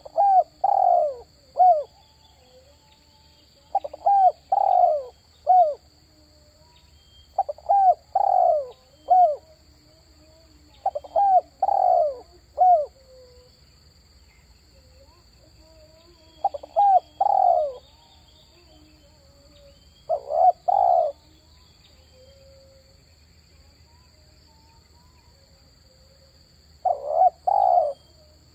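Spotted dove (tekukur) cooing: seven phrases, each of two to four notes, repeated every three to four seconds with a longer pause before the last.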